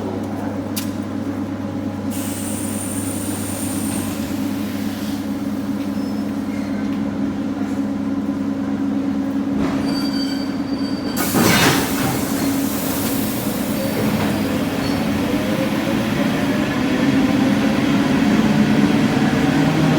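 Electric commuter train at a station: a steady electrical hum with wheel and rail noise, a brief loud rush about halfway through, then a whine that rises in pitch over the last few seconds.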